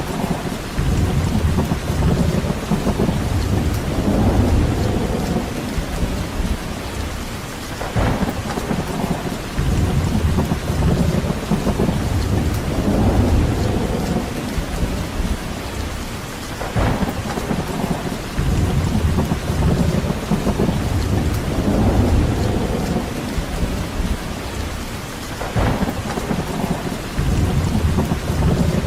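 Steady rain with deep rumbles that swell and fade about every eight and a half seconds, evenly spaced like a loop.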